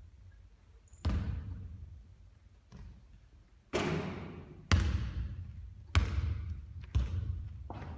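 Basketball bouncing on a hard court: a series of sharp thuds at irregular intervals, each trailing off in reverberation. The impact about four seconds in rings longer and noisier than the others.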